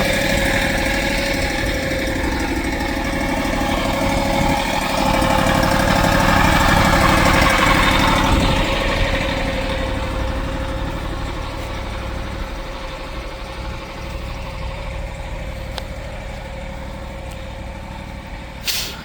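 An engine idling steadily; it fades gradually over the second half. A short hiss comes just before the end.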